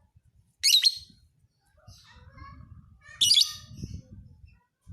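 Lovebird calling: two loud, short, high chirps about two and a half seconds apart, with fainter twittering between them.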